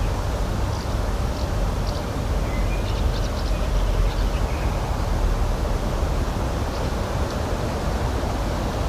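Steady outdoor rushing noise, strongest in the low end, with a few faint, short high bird chirps scattered through it.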